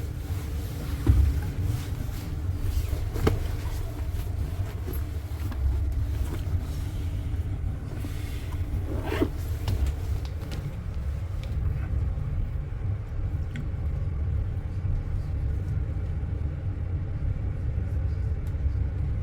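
Low, steady rumble inside a London double-decker bus from its engine and road noise, with a few knocks and rattles in the first half and one brief higher-pitched sound about nine seconds in.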